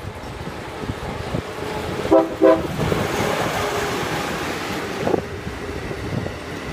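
Amtrak Acela Express high-speed trainset sounding two short horn blasts about two seconds in, then a loud rushing of wind and wheels on rail as it passes at speed.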